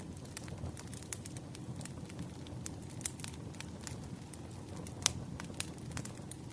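Firewood burning: a wood fire crackling, with a steady low rumble of flames under frequent sharp pops and snaps, one louder pop about five seconds in.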